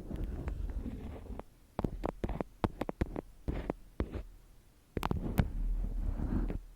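Close-miked ASMR trigger sounds: a run of sharp taps and clicks, with stretches of scratchy rubbing and rustling before and after them, and a low rumble from handling near the microphone.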